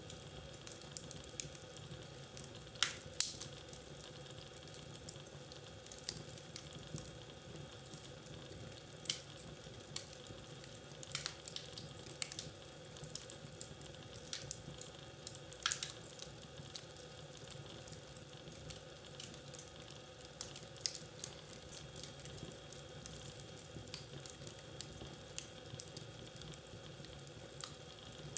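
Wood fire crackling in a fireplace: irregular sharp pops and snaps over a soft steady hiss, the loudest pop about three seconds in.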